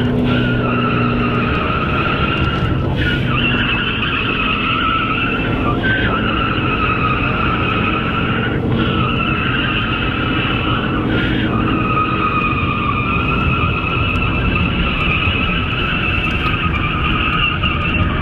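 Car tyres squealing almost without a break as a car drifts, the squeal wavering in pitch and dropping out briefly a few times, with the engine running underneath.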